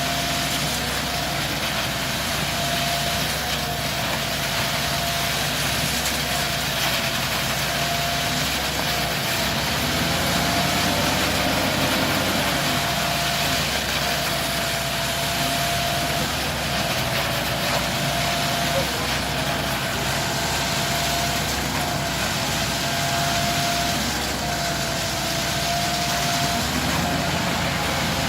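An engine running steadily, with a steady whine over it.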